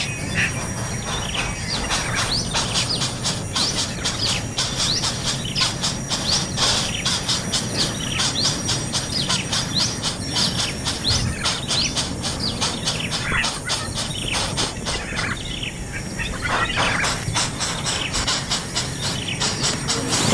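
Birds in a nest chirping rapidly and continuously, a stream of short, rising, high chirps with a brief lull near the end.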